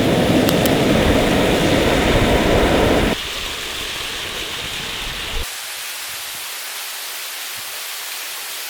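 Steady rushing of a waterfall, a dense, even noise strong in the low end. It drops sharply in level about three seconds in and thins again about halfway through.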